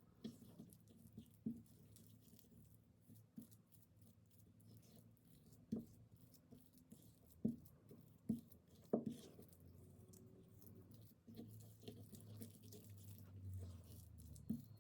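Faint scattered clicks, taps and scrapes of a spoon working ingredients in a small dish, with a few sharper taps between about six and nine seconds in. A low hum comes in about eleven seconds in.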